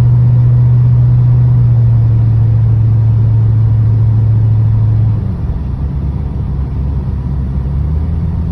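1986 Corvette's 5.7-litre V8 engine running steadily, heard from inside the cabin with the top up; about five seconds in its note drops lower and a little quieter.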